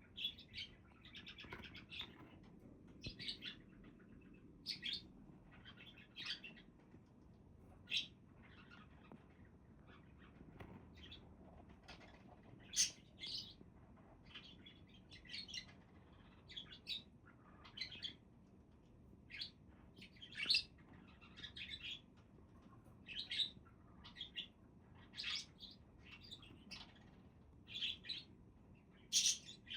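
Budgerigars chirping and chattering: short, high calls come irregularly, several a second at times, a few of them louder than the rest.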